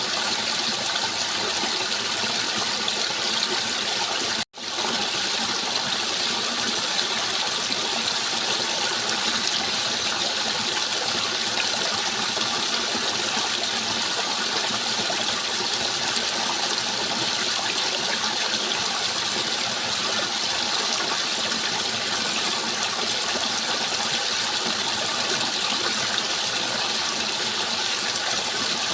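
Steady rushing flowing water, an even continuous wash of sound that drops out for an instant about four and a half seconds in.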